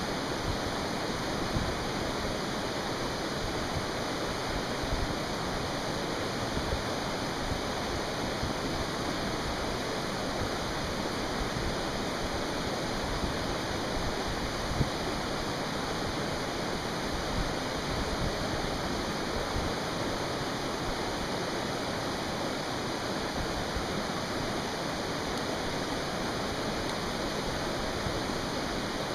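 Mountain stream rushing steadily, with a few sharp pops from a campfire now and then.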